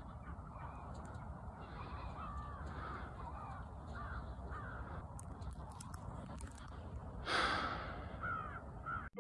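Birds calling over and over in short honking caws, over a steady low rumble. A brief, louder rush of noise comes about seven seconds in.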